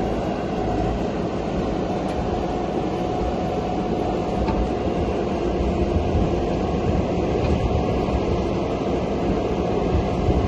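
LTMG LTS75 skid steer loader running steadily under work, its engine making a low rumble with a steady high tone over it.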